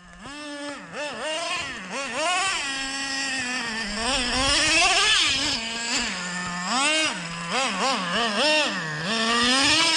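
Traxxas Revo 3.3 nitro RC monster truck's small glow-fuel engine revving up and down over and over as the truck is driven, with short throttle blips and a few longer pulls to a high scream.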